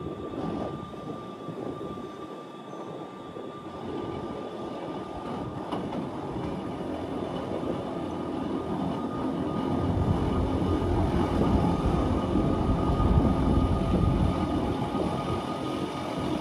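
Wengernalpbahn electric rack-railway train running, with a steady high whine over rolling noise; a low rumble grows louder about ten seconds in.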